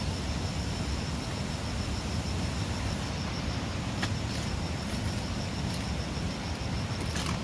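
Outdoor ambience: a steady low rumble, with an insect's high, evenly pulsing trill running through it and a couple of light clicks about four seconds in and near the end.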